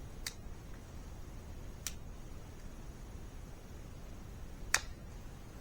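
Three sharp clicks spread over a few seconds, the last the loudest, from feeder parts being handled while a funnel is worked into a deer feeder. A low steady rumble runs underneath.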